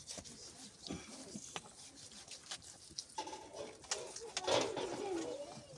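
Animal calls: a few short, wavering calls, the loudest about four and a half seconds in, among scattered light clicks and knocks.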